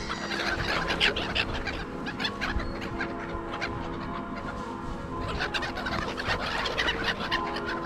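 Gulls and crows calling at a feeding spot, in bunches of quick calls near the start and again about five seconds in, over steady background music.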